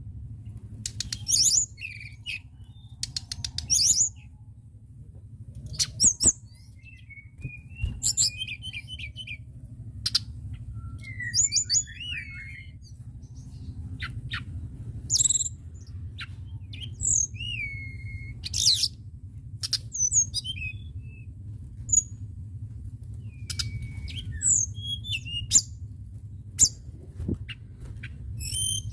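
A tledekan gunung songbird singing in lively bursts: short, varied phrases of high chirps, whistled notes and fast rattling trills every second or two, over a steady low hum.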